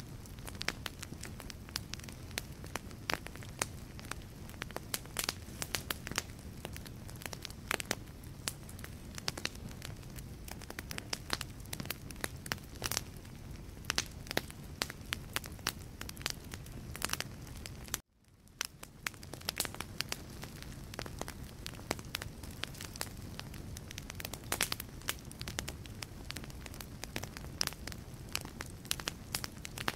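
Wood logs burning in a fireplace, crackling with frequent sharp pops over a low, steady rumble of flame. About eighteen seconds in the sound cuts out abruptly, then fades back in within about a second.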